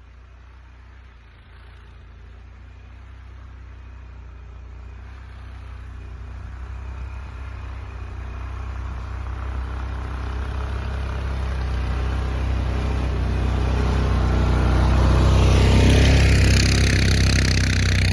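A vehicle engine running and drawing steadily closer, growing louder until about two seconds before the end. A hiss builds over it as it nears.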